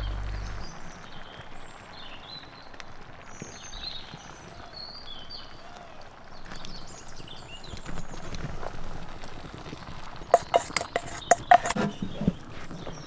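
Background music cutting off right at the start, then quiet outdoor ambience with faint high chirps, broken about ten seconds in by a quick run of sharp knocks and clatter.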